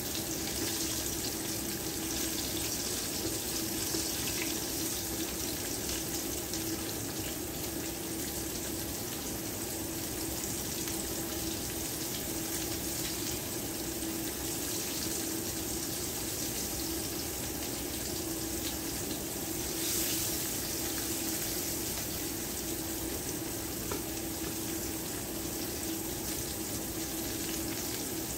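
Flour-coated summer squash pieces frying in hot oil in a cast-iron skillet: a steady sizzle, with a steady low hum underneath.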